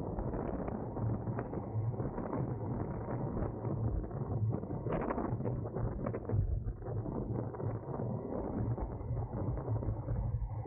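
Road bike riding in a racing pack: steady wind and road rumble on the microphone, with rapid clicking from bicycle freehubs and drivetrains throughout.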